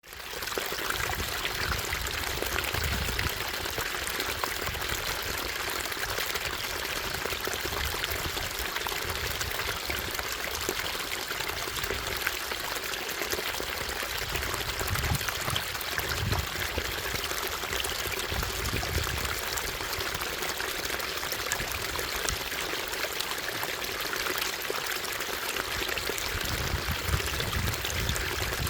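Small waterfall of a stream: water falling and splashing in a steady rush, with short low rumbles now and then.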